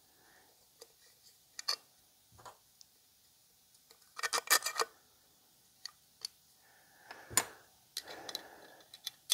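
Chainsaw parts and tools handled on a workbench: scattered small clicks and rattles, a quick cluster of clicks about halfway, and a brief scraping rub near the end.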